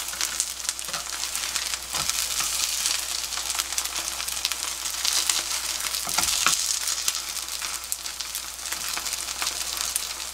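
Kimchi pancakes frying in a generous layer of oil in a nonstick pan, a dense, steady crackling sizzle. A spatula knocks against the pan twice, about two seconds in and again as a pancake is flipped about six seconds in.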